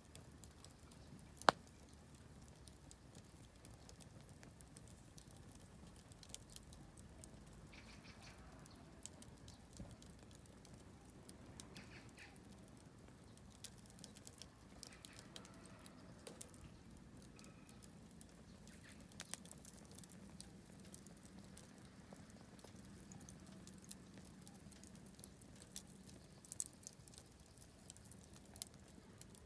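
Oak firewood burning in a fire pit, faintly crackling with scattered small pops and one sharp pop about a second and a half in. A few faint bird calls sound in the background.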